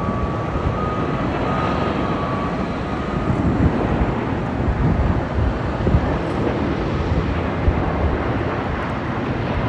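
British Airways Airbus A380's four Rolls-Royce Trent 900 engines at high power, a loud, steady, deep rumbling rush. A thin whine fades out about three seconds in.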